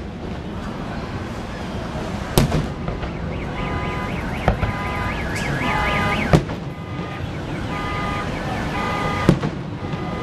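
Fireworks going off with sharp bangs every couple of seconds, and from about a third of the way in a car alarm sounding, repeating short bursts of steady electronic tones.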